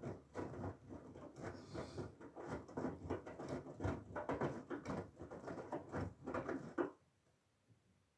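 Whirlpool FSCR90425 washing machine drum turning during a synthetics wash, with wet laundry and water sloshing and pattering unevenly. The drum stops about seven seconds in, leaving near silence, as in the pause between tumbling turns.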